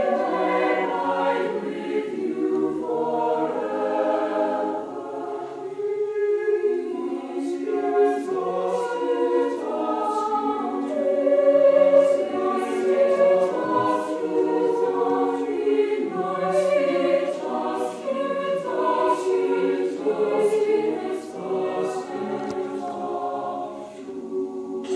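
A choir singing, many voices holding and moving through sustained chords.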